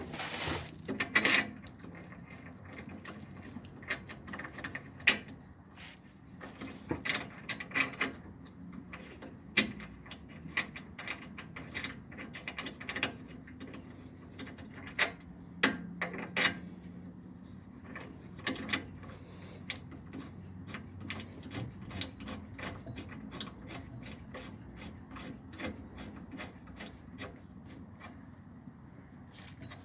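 Hand tools working on metal car parts: scattered clicks, clinks and knocks at an irregular pace, without a steady rhythm.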